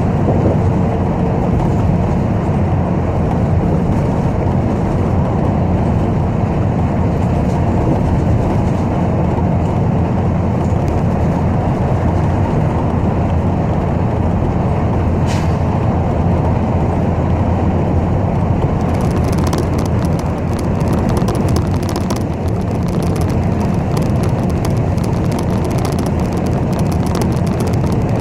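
City bus driving, heard from inside the cabin: a steady low rumble of engine and road noise. A single sharp click comes about halfway through, and a light high rattling joins about two-thirds of the way in.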